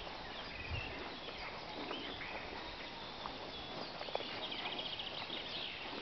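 Small birds chirping and singing over a steady outdoor hiss, with a quick trill of rapidly repeated high notes about four to five seconds in.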